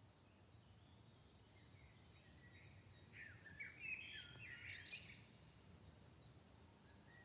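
Faint birdsong: scattered high chirps, with a busier, louder song phrase about three to five seconds in.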